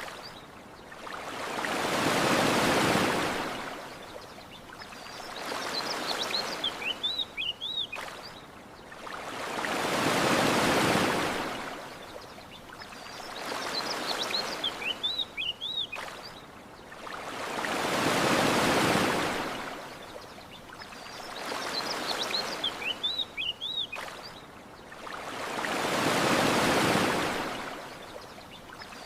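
Ocean waves washing onto a sandy beach: one slow swell of surf about every eight seconds, each rising and then draining away. Between the waves, a short series of high bird chirps repeats in the same place each time.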